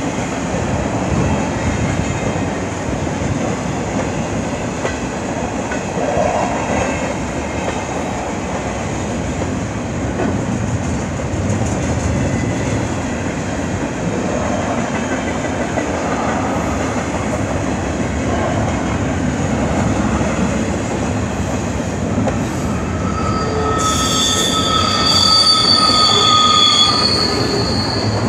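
Double-stack intermodal freight train rolling past: a steady rumble of the well cars' wheels on the rail. Near the end, a high-pitched squeal of several steady tones joins in for a few seconds as the wheels grind through the curve.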